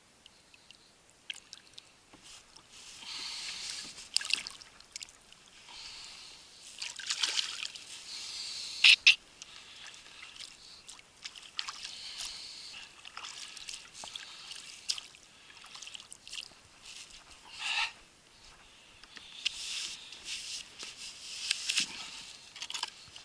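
Water splashing and sloshing around a kayak in irregular bursts every few seconds, with a few sharp clicks or knocks, the loudest about nine seconds in.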